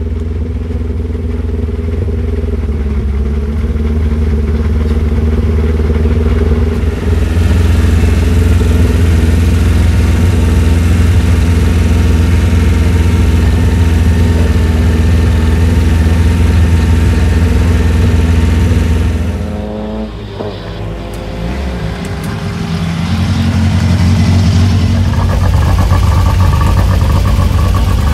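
Volkswagen Golf Mk1 rally car's four-cylinder engine running steadily with a deep hum, held at higher revs from about seven seconds in. Near twenty seconds the engine note drops away with a falling pitch, then an engine picks up again and runs steadily to the end.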